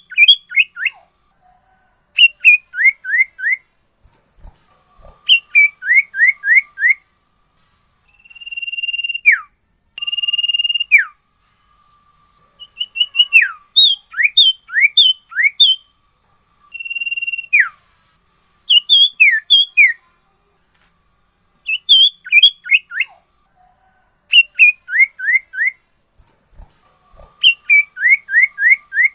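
Sirtu songbird singing 'nyiul nyiul' repeatedly: phrases of four or five quick falling whistles every two to three seconds, mixed with a few long held whistles that each drop sharply at the end. A couple of faint low thumps are heard, one a few seconds in and one near the end.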